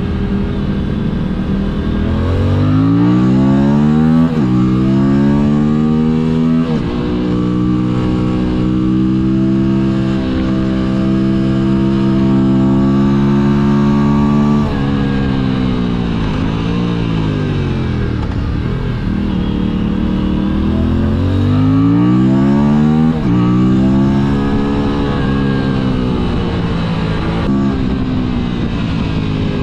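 Motorcycle engine accelerating up through the gears, its pitch rising and dropping back at each shift. It then holds a steady pitch for several seconds, falls away as the throttle closes, and pulls up through the gears again.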